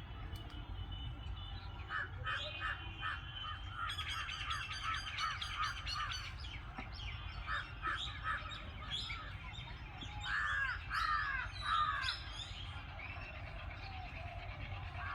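Parrots calling in a tree: many repeated shrill squawks and chirps, the loudest a run of arching calls about ten to twelve seconds in, over a low steady rumble.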